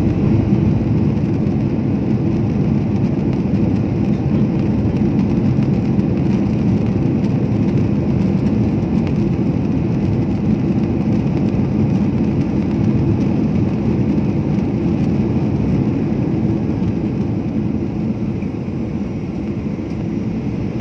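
Steady airplane cabin noise, engines and airflow heard from inside the cabin, easing slightly near the end.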